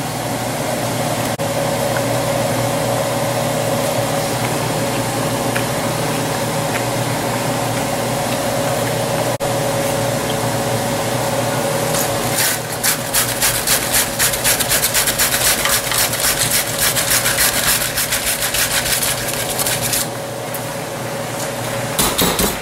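A cabbage is pushed back and forth across the blade of a BRON mandoline, making a fast, even run of scraping slicing strokes, several a second. The strokes start about halfway through and stop a couple of seconds before the end, with a few more right at the end. Before they start there is only a steady hum.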